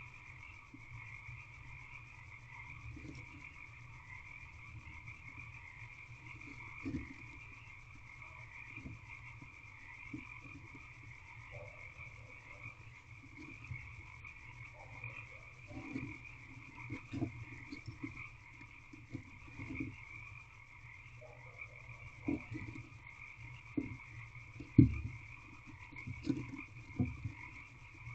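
A frog chorus calling steadily, with scattered soft knocks and scrapes from the barn owl moving about in the wooden nest box; the loudest is a single thump near the end.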